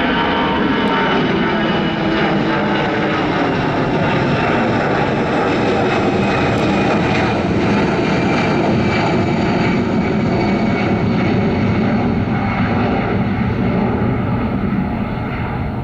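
Airliner's engines passing close by, a loud, steady noise with tones sliding down in pitch over the first few seconds, easing off a little near the end.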